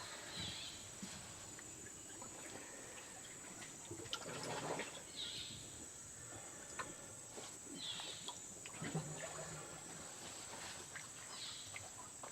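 Faint kayak paddling on calm water: the paddle dipping and dripping every few seconds, over a thin steady high tone.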